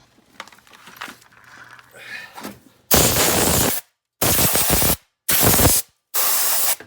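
A few faint scrapes and clicks, then, about three seconds in, four loud bursts of rushing, hissing air. Each burst lasts under a second and stops abruptly, with short silent gaps between them.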